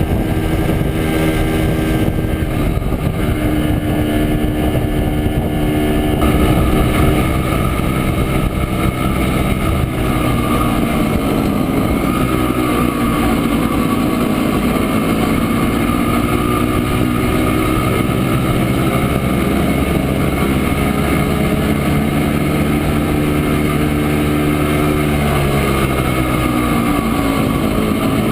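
Montesa Impala Comando 175's single-cylinder two-stroke engine running under way, its note steady at first, dipping in pitch about ten seconds in and climbing again, then changing pitch once more near the end.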